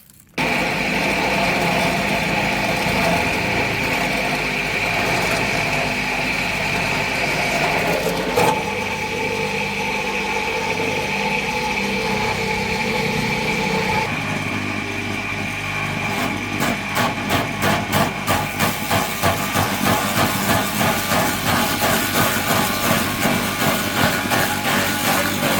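A small engine running steadily with a high whine. Its level starts to rise and fall about twice a second near the end.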